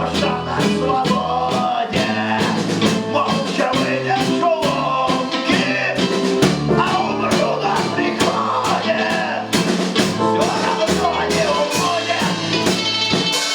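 Live rock band playing a song: a steady drum beat under bass and a wavering lead melody.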